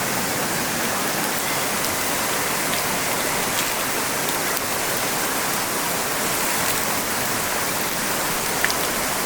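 Mountain stream rushing steadily, with a few faint clicks.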